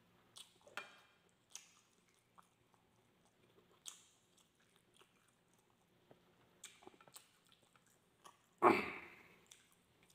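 A man chewing and biting grilled barbecue skewer meat with rice at close range, with soft, scattered eating noises and one louder burst of sound about nine seconds in.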